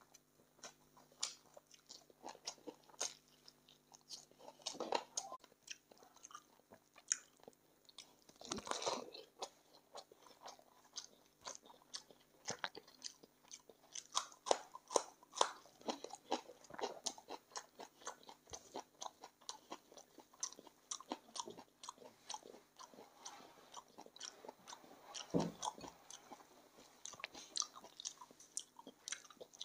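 Close-up mouth sounds of someone eating chicken feet in curry gravy: chewing and biting with rapid, irregular wet clicks, and a few longer, louder mouth sounds, one about nine seconds in and another near the end.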